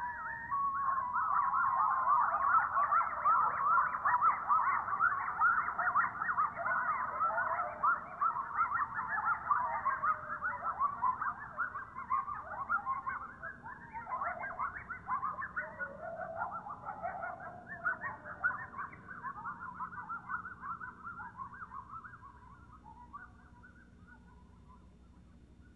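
A group of coyotes howling and yipping together: a dense chorus of rapid, wavering high calls that fades away over the last few seconds.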